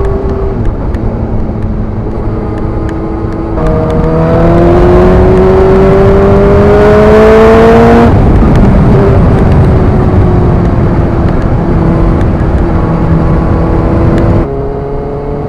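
Suzuki GSX-R sports motorcycle engine heard from the rider's helmet over wind rush: it pulls hard with a rising pitch for about four seconds, drops abruptly as the throttle is shut or a gear is changed, then cruises steadily, easing lower near the end.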